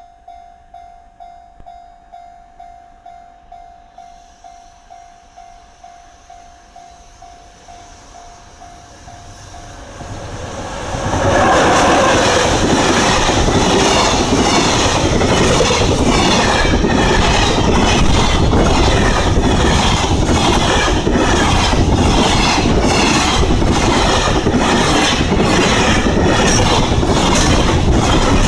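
A level-crossing warning bell dings steadily about twice a second. About ten seconds in, a freight train arrives and passes close by, loud, its wagon wheels clicking rhythmically over the rail joints.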